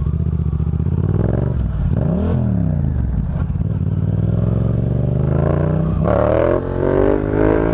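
Yamaha FZ-07's 689 cc parallel-twin, crossplane-crank engine running through a Yoshimura exhaust while being ridden, revving up and down. The pitch climbs and falls back about two seconds in, then climbs steadily for several seconds, dips briefly near the end and rises again.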